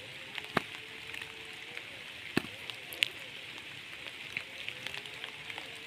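Steady rain hiss with scattered sharp drop clicks, the loudest about half a second, two and a half and three seconds in. Faint low cooing of a spotted dove sits underneath.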